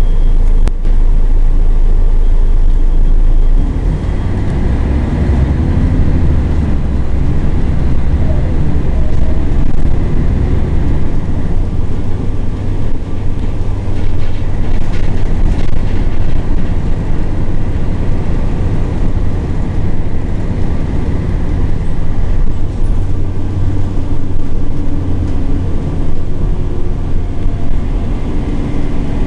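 Scania L113CRL single-deck bus's rear-mounted diesel engine running loud and low while the bus is under way, dropping a little in level about three and a half seconds in.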